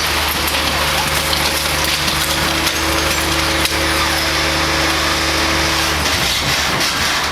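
Garbage truck running its engine and hydraulic compactor: a steady low hum with crunching and crackling over it. The hum drops away about six seconds in.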